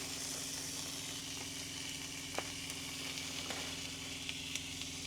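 Bacon sizzling steadily in a hot pan, with a couple of faint pops.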